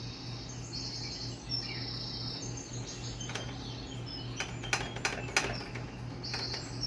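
Bird chirping in the background in repeated high trills, with a few light clicks and taps about three to five and a half seconds in, over a steady low hum.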